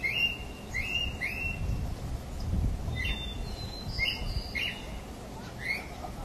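Birds chirping: short, repeated high calls at irregular intervals over a low, steady rumble.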